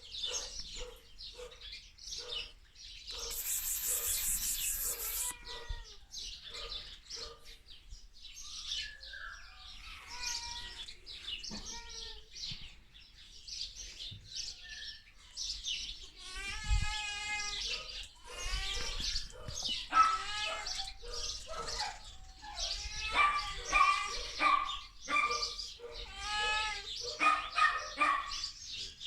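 Bodeguero Andaluz dog whining and yipping in many short high-pitched calls that bend up and down in pitch, with a harsher, buzzier call about two thirds of the way through.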